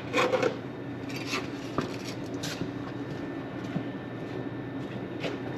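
A few short metallic clinks and scrapes of hand tools, over a steady machine hum.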